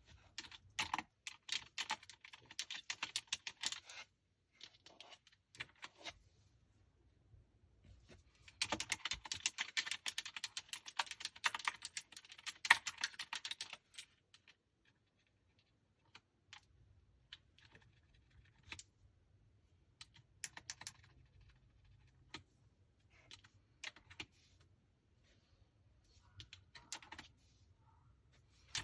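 Langtu L98 mechanical gaming keyboard being typed on: a few seconds of quick keystrokes, a short pause, then a long dense run of fast typing, followed by scattered single key presses with gaps between them.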